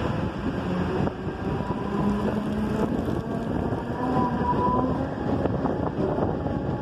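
Mumbai suburban local electric train running, heard from its open doorway: a steady rumble and rattle of the coach on the track, mixed with wind on the microphone. A brief high whine comes in about four seconds in.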